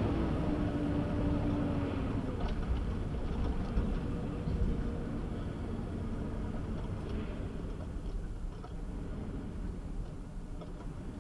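Steady low rumble of a car on the move, road and engine noise as picked up by a dashcam inside the vehicle, with a couple of held tones fading out in the first two seconds and a few faint ticks.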